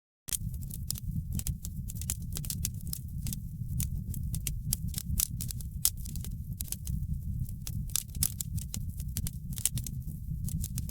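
Wood fire burning in a fireplace, crackling with frequent sharp pops and snaps over a steady low rumble of the flames. It starts just after a brief gap of silence.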